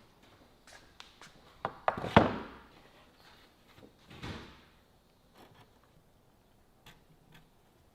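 Knocks and thumps of wooden pieces being handled and set down: a sharp, loud knock about two seconds in that rings briefly, a softer thud about four seconds in, and a few light clicks.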